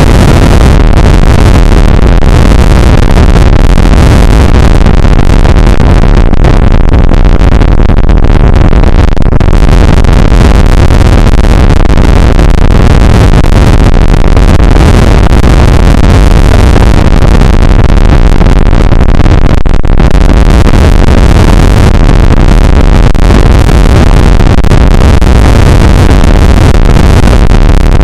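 Rain shower on an outdoor camera's microphone: a steady, dense noise with no distinct drops or tones, so loud that the microphone stays overloaded at full level.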